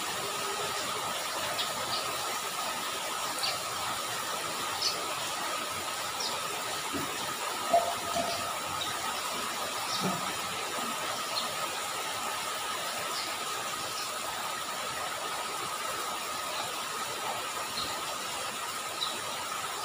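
Steady rain falling onto a flooded road and puddles: an even hiss with scattered drips, a faint steady tone underneath, and a couple of louder knocks about eight and ten seconds in.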